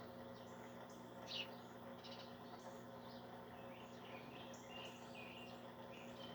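Faint birds chirping in short, scattered calls, one a little louder about a second and a half in, over a faint steady hum.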